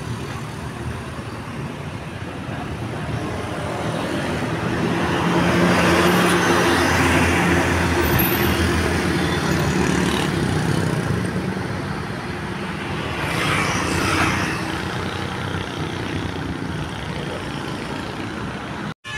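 A bus engine running as the bus pulls away past, growing louder over a few seconds and then slowly fading, with a second, shorter swell of road noise later on.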